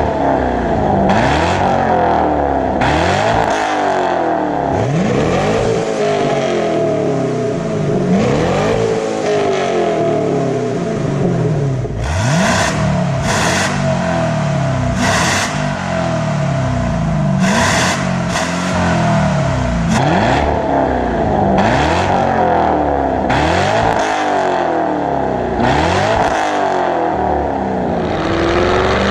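Chevrolet Camaro SS 6.2-litre V8 revved repeatedly through an aftermarket stainless H-pipe and valved axle-back muffler, the pitch rising and falling back with each throttle blip about every one to two seconds.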